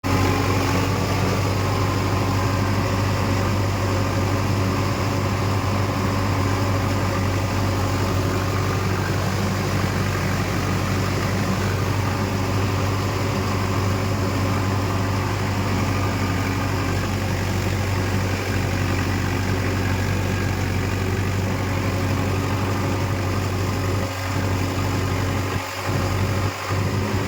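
Preet 6049 tractor's diesel engine idling steadily with a deep, even hum, dipping briefly a few times near the end.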